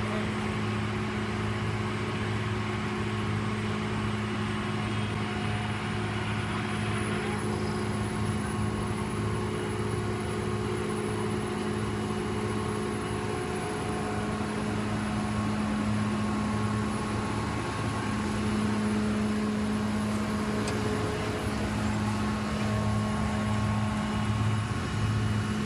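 Engine of heavy road-repair machinery running steadily, a low even hum.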